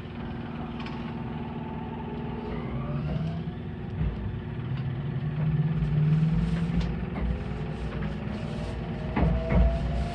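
Meitetsu 2000 series μSKY electric train heard from inside the cabin, running with a low rumble while its traction motor whine rises slowly in pitch as it picks up speed.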